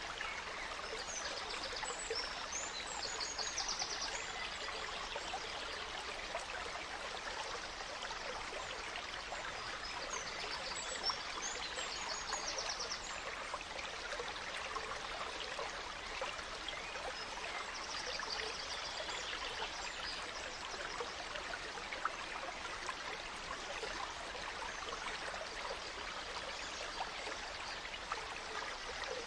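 A gentle stream running and trickling steadily, with birds singing bursts of fast high chirps over it three times.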